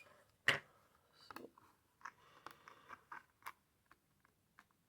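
Light taps and clicks of paper and small craft tools being handled on a table, with one louder knock about half a second in.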